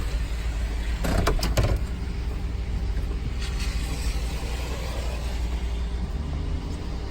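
2007 Chevrolet Tahoe's V8 idling steadily shortly after a cold start in cold weather. A few sharp clicks come about a second in.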